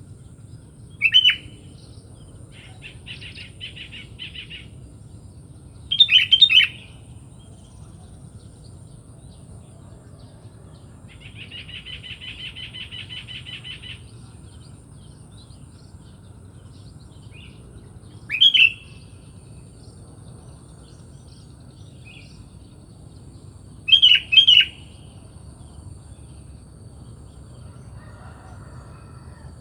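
Sooty-headed bulbul (kutilang) giving short, loud bubbly call phrases four times, with softer chattering and a rapid, even trill in between.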